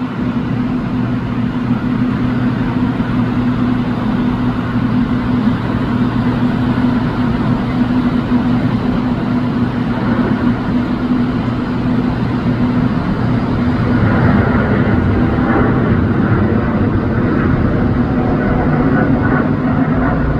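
Boeing 777F freighter's GE90 jet engines running with a steady hum, turning louder and fuller about two-thirds of the way through.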